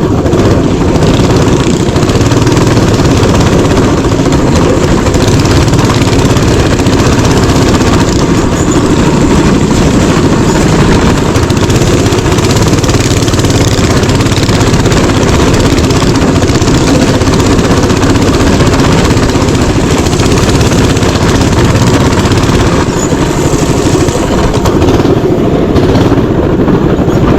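Mini bike engine running steadily under way on a trail, loud and close, with a constant rushing noise.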